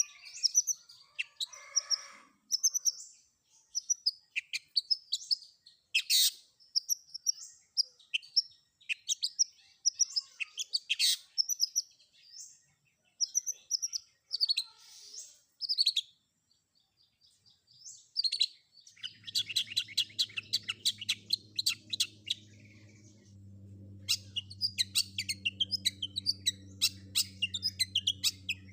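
Long-tailed shrike (cendet) singing a fast, varied song of high chirps and trills with mimicked phrases, with a short pause a little past the middle. About two-thirds of the way in, a low steady hum joins under the song.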